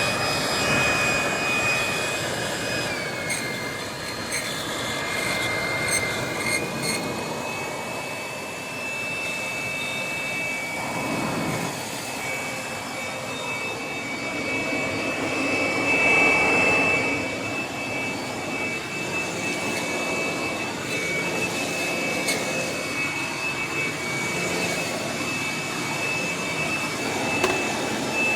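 Ryobi 1600 W electric blower-vacuum running flat out: a steady, loud motor-and-fan whine over rushing air. The pitch dips about three seconds in and picks back up a few seconds later.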